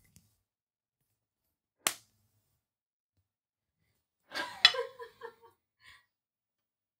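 A rubber band snapped against a bare forearm: one sharp snap about two seconds in, then a louder snap a few seconds later inside a brief flurry of rustling and short muffled sounds.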